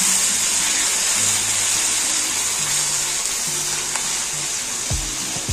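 Chicken pieces sizzling steadily as they fry in oil with onions and garlic in a wok while being stirred with a spatula, with a few knocks near the end.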